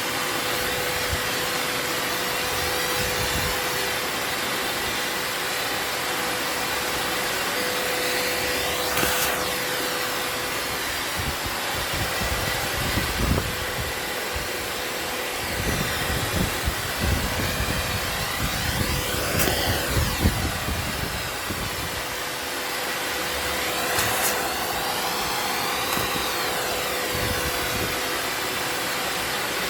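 Vacuum cleaner running continuously, used to suck up hornets from their nest: a steady motor whine and airflow hiss, its pitch briefly dipping and recovering a few times. Irregular low bumps come in the middle.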